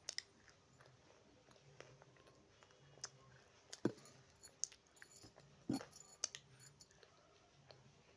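A person biting and chewing crunchy pieces of clay close to the microphone: scattered crisp crunches and clicks, the loudest two about four and about six seconds in.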